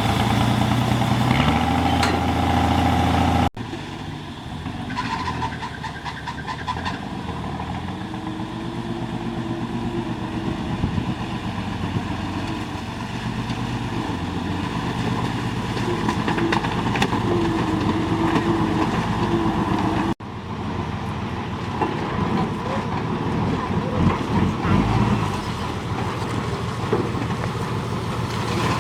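Diesel engine of a JCB 3DX backhoe loader running while it digs and loads mud. A higher wavering whine rides over the engine through the middle, and the sound breaks off abruptly twice.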